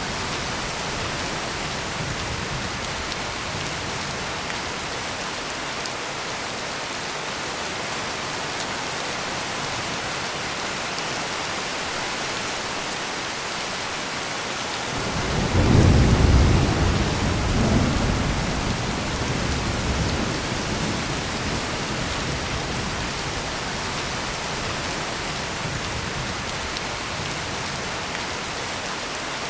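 Heavy rain falling steadily, with a roll of thunder about halfway through that rumbles up suddenly, swells again and dies away over several seconds.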